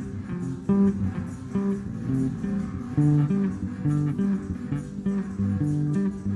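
Instrumental band music with no singing: guitar and bass guitar playing a run of changing notes, a new note about every half second.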